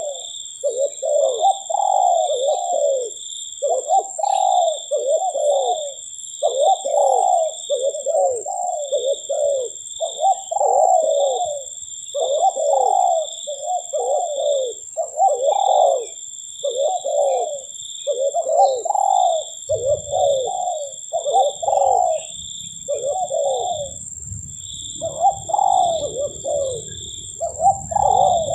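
Spotted dove (tekukur) cooing over and over in short phrases of two or three notes, with hardly a break. Behind it run a steady high whine and a pulsed high trill. A low rumble comes in about two-thirds of the way through.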